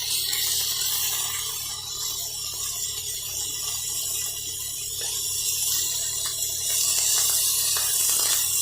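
Pork pieces sizzling in an electric skillet as they brown, a steady high hiss of frying, with a low steady hum underneath.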